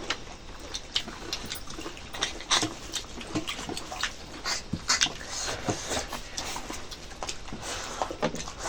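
Close-miked eating sounds of rice with chicken curry: a string of irregular wet chewing and lip-smacking clicks.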